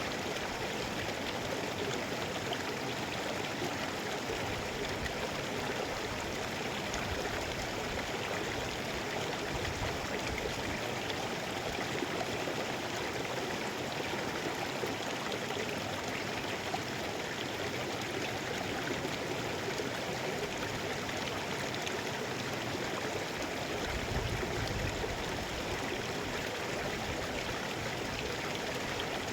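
Mountain stream flowing over rocks: a steady rushing and babbling of water, with a brief low swell about twenty-four seconds in.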